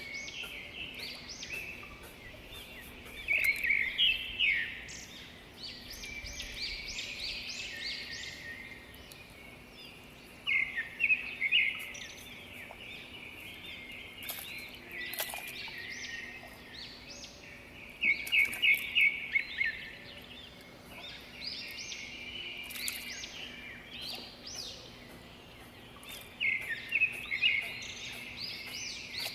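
Birds chirping and singing in several bursts of quick, high notes, over a faint steady background.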